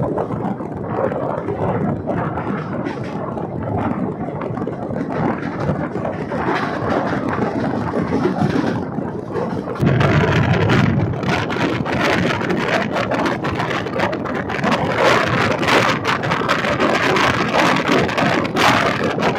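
Indian Railways ICF passenger coach running along the track, heard from its open door or window: a steady rumble of wheels on rails with many short clicks and rattles, and wind buffeting the microphone. It becomes louder and brighter about ten seconds in.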